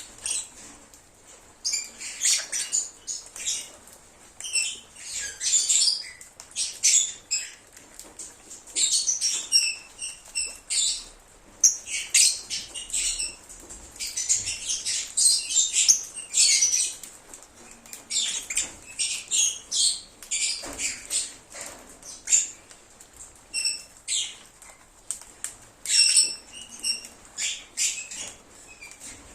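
A group of lovebirds chirping and chattering: a steady run of short, high, shrill chirps and trills in overlapping bouts, with brief pauses between them.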